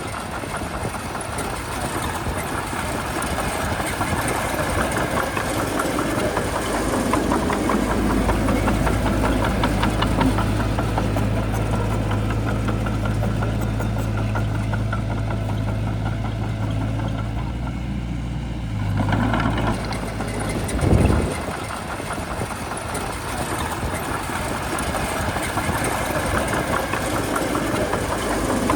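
Shantui bulldozer's diesel engine running steadily, its low note heavier through the middle as it works, with a short louder swell and then a single thud about two-thirds of the way through.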